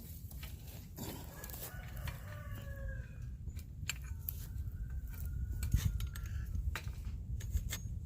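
A rooster crowing about a second in, with a fainter call around the middle, over a run of sharp clicks and knocks.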